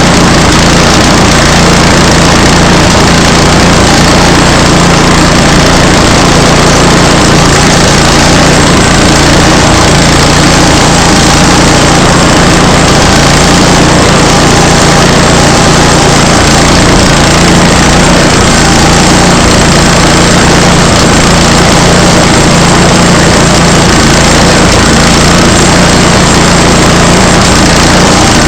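Small gasoline engine of a portable sawmill running loud and steady while the blade cuts through a log.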